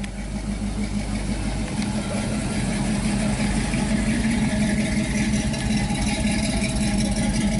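Car engine running steadily with an even hum.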